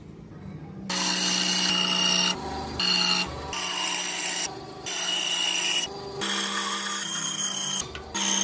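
Electric power tool working wood, starting about a second in: a steady motor hum with a rasping hiss, broken off briefly every second or so.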